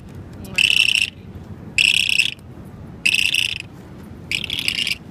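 A bird caught on a fishing hook calling four times, evenly spaced about a second apart, each call about half a second long.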